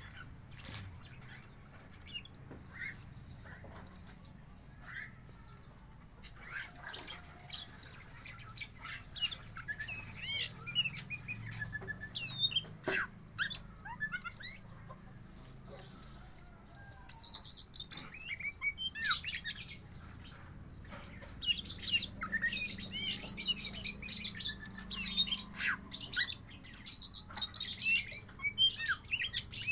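Pet bird calling in short, quick chirps, sparse at first and coming thick and fast from a little past halfway, with a few sharp clicks. The owner puts its fierce mood down to too few crickets in its feed.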